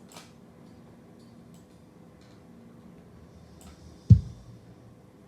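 A single kick drum hit from the multitrack playback about four seconds in, deep and short, after a few faint clicks.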